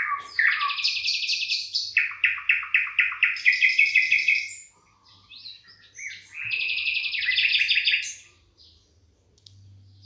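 Birdsong in the trees: fast series of high chirping notes, breaking off about halfway through, starting again for a couple of seconds, then stopping near the end.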